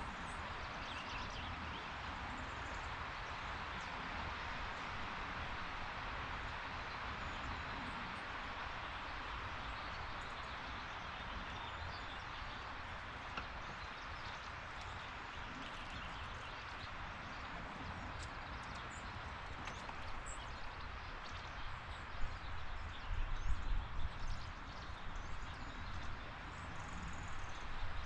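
Steady outdoor background hiss with faint scattered ticks, and a few louder low bumps a little before the end.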